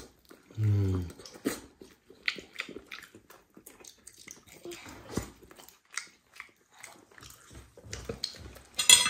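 Close-up mouth sounds of eating roast chicken: irregular chewing, biting and lip-smacking clicks. A short low vocal 'mmm' falling in pitch comes about a second in, and a sharper crunch near the end.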